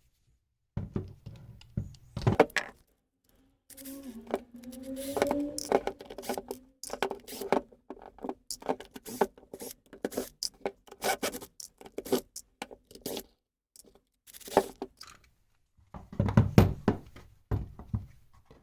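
Sped-up sound of small Torx screws being undone from an aluminium casting with a screwdriver and set down: a quick, irregular run of clicks, knocks and scrapes, with a short wavering tone about four to six seconds in.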